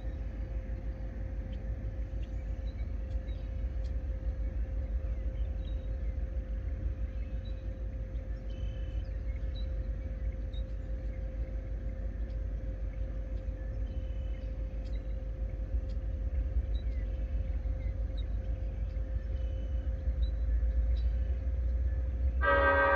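Distant Union Pacific freight train approaching: a steady low rumble that grows louder toward the end. In the last half second the locomotive's horn begins to blow.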